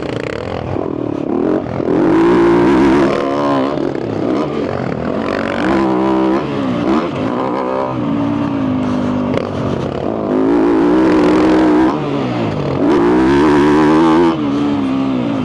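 2022 Yamaha YZ250F dirt bike's single-cylinder four-stroke engine, breathing through a full FMF exhaust, ridden hard: the engine note rises and falls several times as the rider opens and closes the throttle.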